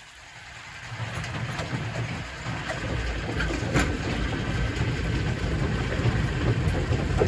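Primary rock crusher crushing stone: a low grinding rumble that builds up about a second in, with scattered sharp knocks of rock against rock.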